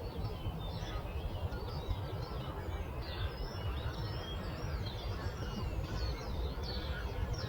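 Dawn chorus of many small birds chirping and trilling in quick, overlapping short calls, over a steady low rushing background.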